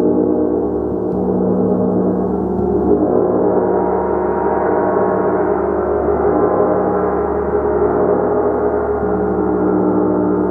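Gong played continuously: a dense, sustained wash of many overlapping tones that swells and eases gently, with no single strike standing out.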